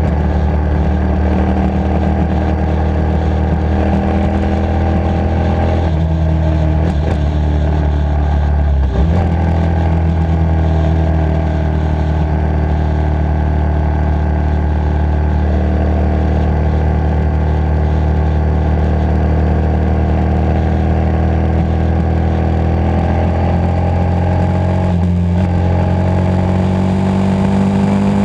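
Motorcycle engine running steadily while riding, with a brief change in the engine note about nine seconds in and the pitch rising near the end as it speeds up.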